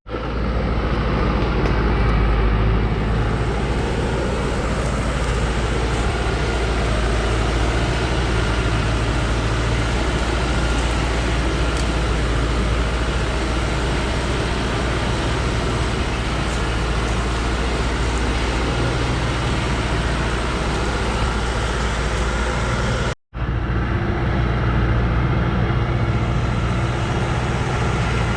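Loaded timber truck's engine running steadily, a heavy low drone with road noise, broken off for an instant about 23 seconds in.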